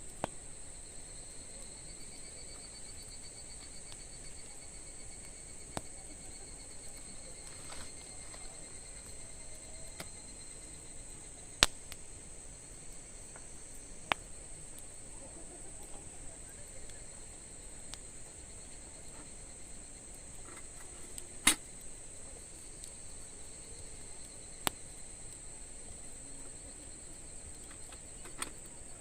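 Wood fire burning with a handful of sharp, scattered pops, two of them much louder than the rest, over steady high-pitched insect chirring.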